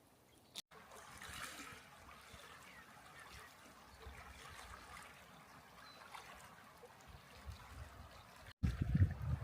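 Faint, steady trickling and lapping water. After a sudden cut a little before the end, a louder, irregular low rumbling takes over.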